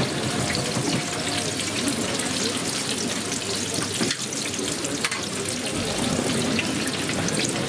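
Potato pancakes frying in a wide pan of hot oil: a steady, dense sizzle full of small crackles.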